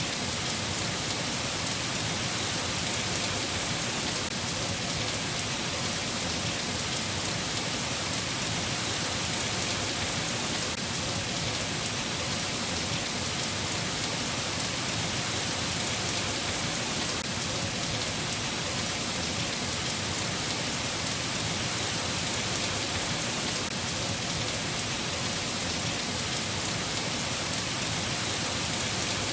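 Steady rain falling, a continuous even hiss of many drops that holds level throughout.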